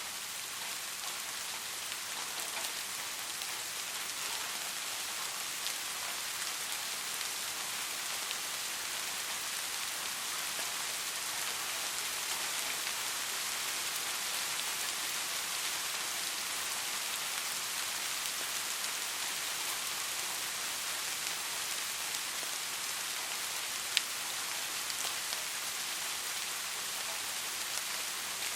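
Steady soft rain falling, an even hiss with many small drop patters, and one sharp drop tick near the end.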